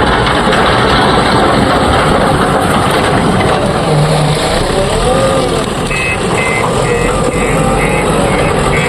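Heavy diesel machinery working, engine speed rising and falling, from a JCB 3DX backhoe loader loading a dump truck. From about six seconds in, a reversing alarm beeps rapidly and evenly.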